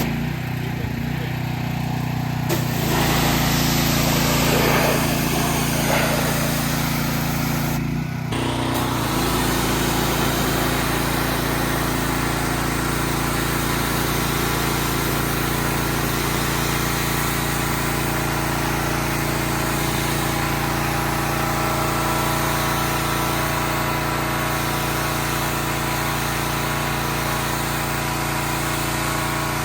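An engine running steadily, with a short hissing stretch a couple of seconds in and a brief dip about eight seconds in.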